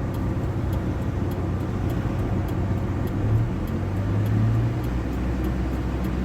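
GAZ Gazelle's ZMZ-405 four-cylinder petrol engine running under way, heard inside the cab with road noise. The engine note rises around the middle and drops lower about five seconds in, with a faint light ticking about three times a second throughout. The owner blames this odd swishing, creaking noise around 2000–2500 rpm on the timing chain since the tensioner swap.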